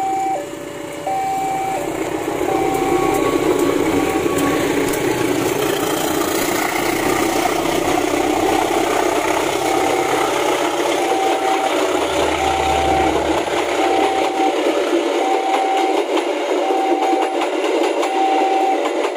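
A diesel-hauled passenger train rolling past a level crossing, its wheels clattering and rumbling on the rails. A two-tone warning alarm repeats the whole time. The locomotive's low engine rumble fades out about 15 seconds in, leaving the carriages rolling by.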